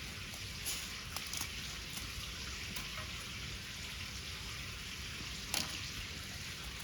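Wood fire crackling and hissing, with a few sharp pops; the loudest pop comes about five and a half seconds in.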